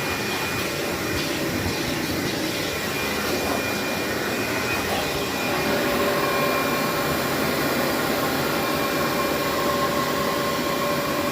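Vacuum cleaner running steadily on carpet. About halfway it gets slightly louder and a lower whine comes in.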